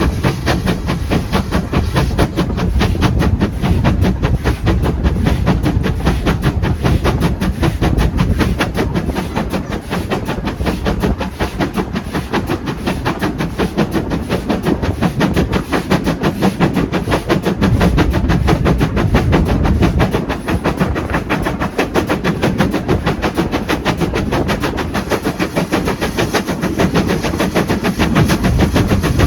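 Steam locomotive working hard, its exhaust beats coming in a rapid, even stream of several chuffs a second over a low rumble of the moving train.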